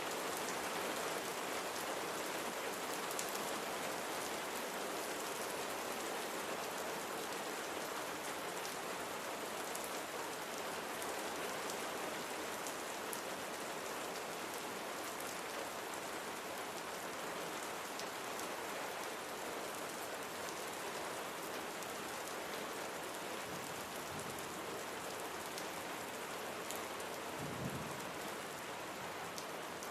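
Steady rain falling, an even hiss with occasional sharper single drops ticking through it.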